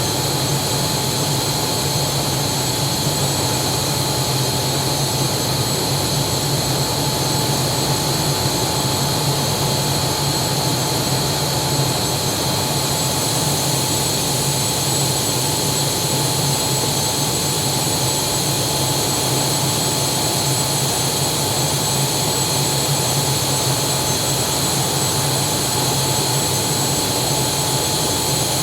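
Steady engine noise with several constant whining tones, holding the same pitch and level throughout.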